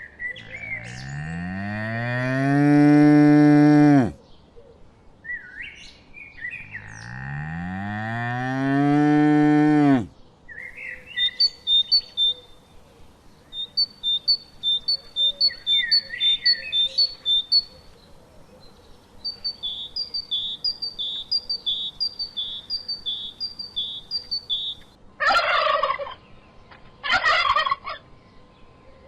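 A cow moos twice, two long deep calls each rising in pitch. Then small birds give high chirps in quick regular series for about fourteen seconds, and near the end a turkey gobbles twice in short bursts.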